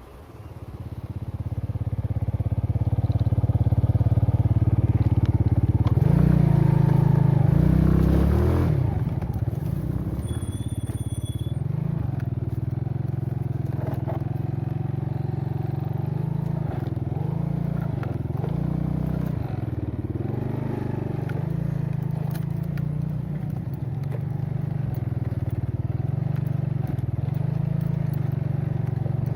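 An engine running close by, coming up over the first few seconds and then running on steadily with small changes in speed.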